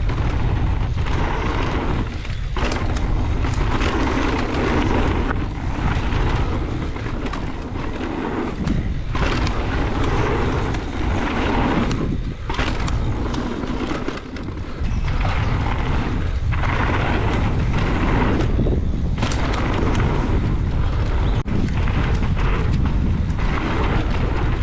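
Wind rushing over the camera microphone with tyre noise from an e-mountain bike riding fast down a dirt trail. The rush is loud and constant, easing briefly every few seconds.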